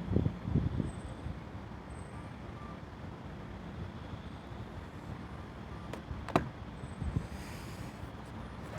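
Low rumble of wind buffeting the microphone, gustier in the first second, with a couple of sharp clicks about six seconds in.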